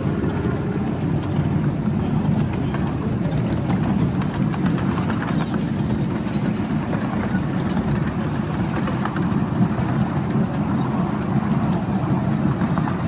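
Miniature railway train running: a steady rumble with a constant patter of small clicks.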